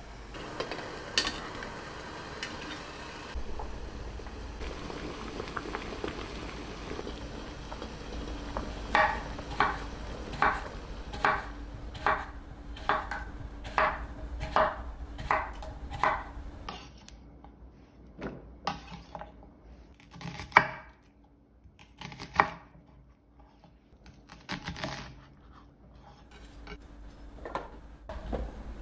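Kitchen dishes and utensils knocking and clinking: a run of about a dozen evenly paced strikes in the middle, then a few separate sharp clinks.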